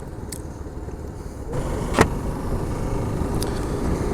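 Motorcycle riding along the road: steady engine and road noise that grows louder about a second and a half in, with one sharp click about two seconds in.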